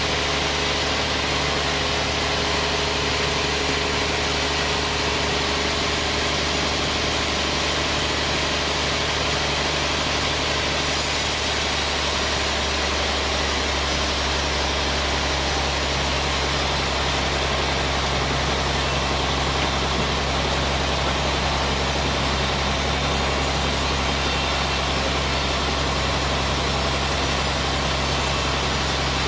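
Sawmill band saw machinery running steadily: a loud, low machine hum over a wide hiss of noise, its low tone shifting about eleven seconds in.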